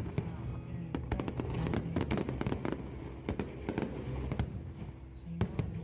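Aerial fireworks going off in rapid, irregular succession: many sharp bangs and crackles, several a second, with a thinner spell in the middle and a cluster of loud reports near the end.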